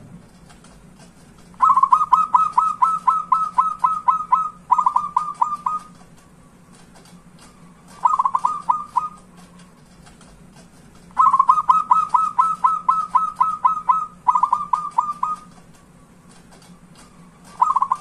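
Zebra dove (perkutut) cooing: quick runs of short, clipped coos, about five a second, in several bouts separated by pauses of a few seconds.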